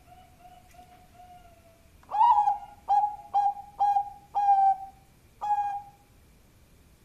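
Zebra dove (Bangkok-type perkutut) cooing: a soft run of low notes, then about two seconds in a loud phrase of six clipped coos in quick succession.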